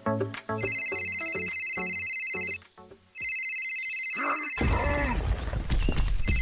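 Telephone ringing in two long electronic rings with a short gap between them, a third ring starting near the end, over light plucked background music. A loud low noise comes in about halfway through.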